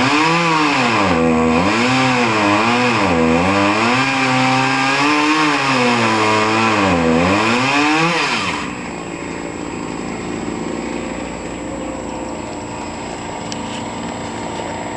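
Two-stroke chainsaw cutting, its engine pitch dipping and climbing again every second or so as the chain bites into the wood. The saw stops a little over halfway through, leaving a quieter steady background hum.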